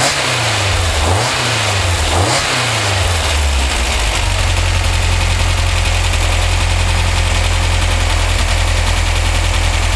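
Freshly built 1985cc air-cooled VW flat-four engine running on a test stand. It is revved in three quick throttle blips about a second apart, then settles to a steady idle about four seconds in.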